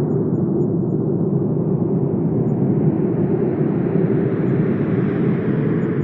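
Wind blowing steadily, a low, even rushing noise that swells and brightens slightly midway before easing a little near the end.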